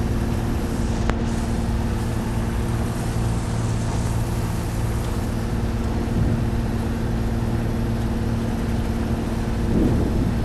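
A sailboat's engine running at a steady speed, giving an even, constant hum. There is a single faint click about a second in.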